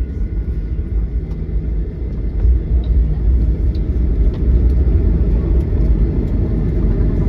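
Steady low rumble inside the cabin of a Boeing 737-800 rolling on the ground after landing: engine and wheel noise, growing a little louder a couple of seconds in.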